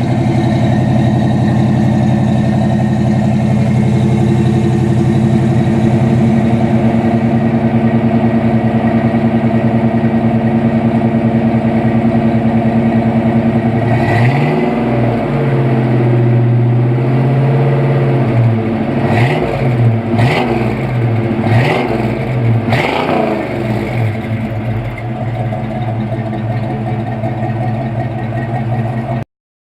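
1985 Ford Mustang GT's 302 (5.0 L) V8 running through a Flowmaster exhaust. It idles steadily, then is revved about halfway through and held up for a couple of seconds, then blipped about four times in quick succession before settling back to idle.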